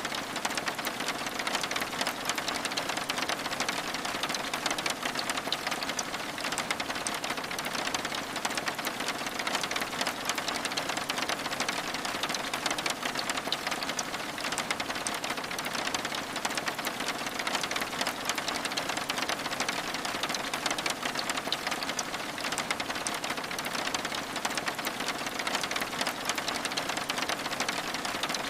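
Steady rain falling on a window and cabin, a dense, even patter of countless small drop impacts that does not change.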